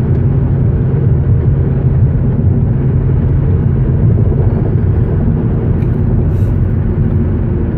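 Steady rumble of a car's engine and tyres heard from inside the cabin while driving on a rain-wet road. Two faint ticks come about six seconds in.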